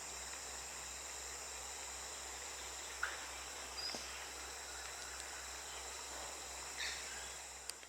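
Outdoor ambience of a steady high insect drone, with a few short bird chirps scattered through it. The sound fades out at the very end.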